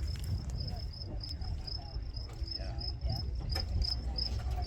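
Insect chirping steadily, a high-pitched chirp repeating about three or four times a second, over a low outdoor rumble and faint distant voices.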